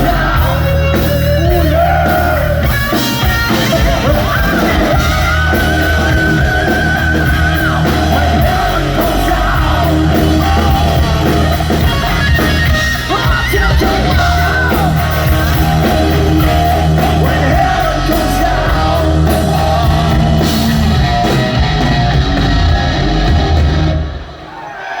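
Live hard rock band playing loud: electric guitar, bass and drums with a singer. The song stops suddenly about a second before the end.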